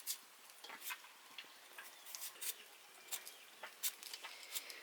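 Light, irregular clicks and taps of kitchen utensils being handled, about a dozen, with no steady rhythm.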